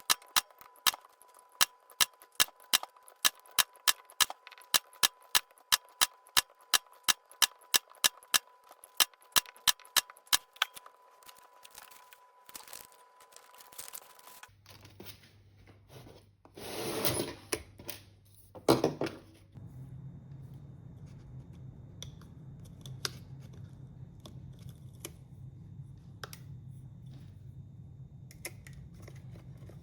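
Battery spot welder firing a run of sharp cracks, about two a second, as nickel or copper strip is welded onto 18650 cells, over a steady high tone. The cracks stop about ten seconds in. Later a low steady hum follows, with two brief rustling noises.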